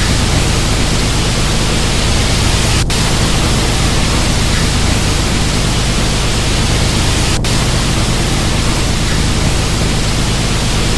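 Steady, loud rushing hiss of an automatic car wash tunnel: water spray and machinery running without a break.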